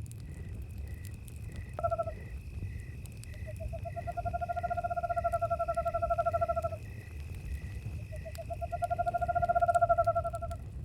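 An owl gives a short call, then two long, even trills of about three seconds each. Crickets chirp steadily at about two chirps a second over a thin high insect drone, with the low rumble and faint crackle of a campfire underneath.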